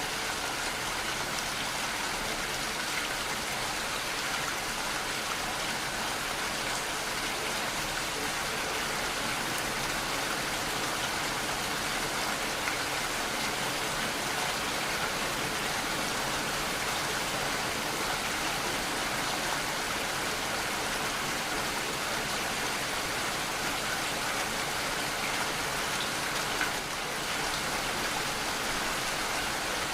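Steady rainfall, an even rushing hiss of raindrops.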